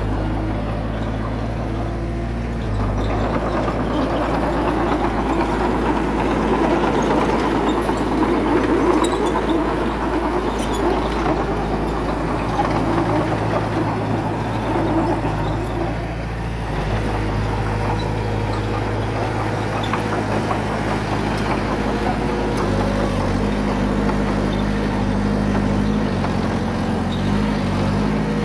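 Heavy diesel engine of a bulldozer running steadily at work, with a harsher grinding noise on top for over ten seconds from about three seconds in. The engine note shifts up and down several times near the end.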